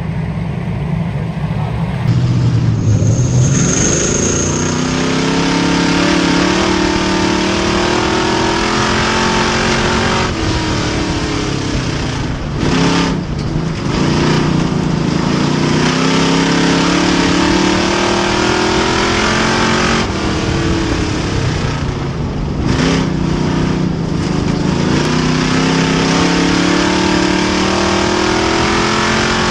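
Race car engine at full throttle on an asphalt oval. Its pitch climbs steadily, then drops sharply about four times as the driver lifts off and gets back on the power.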